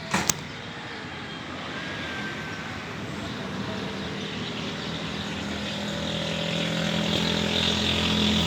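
A sharp knock right at the start, then an engine hum that grows steadily louder, as of a vehicle approaching.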